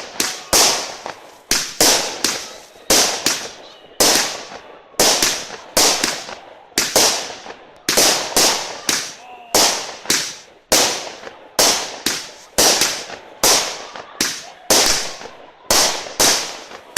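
Fireworks going off in a steady run of sharp bangs, about three every two seconds, each fading out before the next.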